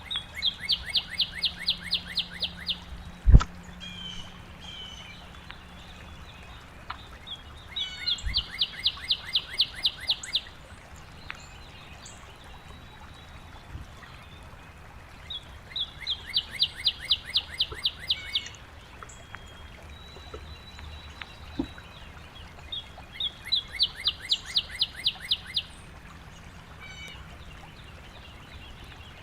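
A songbird singing the same fast trill of rapidly repeated notes four times, about seven seconds apart. A sharp knock about three seconds in and a softer one near eight seconds are the loudest sounds.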